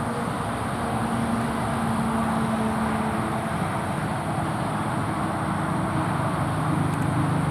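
Road traffic: a steady hum of vehicle engines and tyres, swelling slightly.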